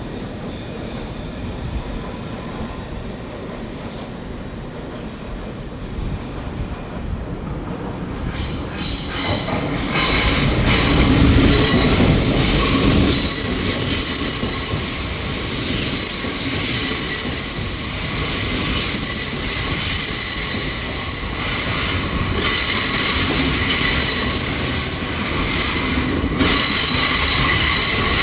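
Hitachi IET intercity train arriving at the terminus, its wheels squealing with several high, steady whining tones. The sound grows loud about nine seconds in and stays loud.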